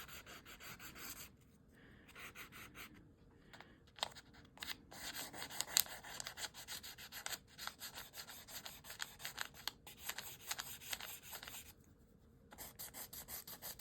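Stabilo All pencil scratching across paper in many quick, faint strokes, with a few short pauses.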